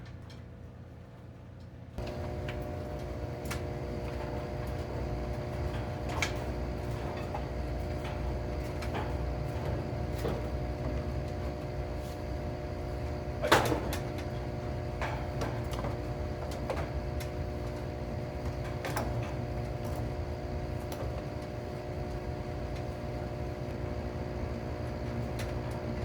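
A steady machine hum with several held tones switches on about two seconds in, with scattered light clicks and one sharp knock about halfway through, typical of plastic pipe fittings being handled and pushed together.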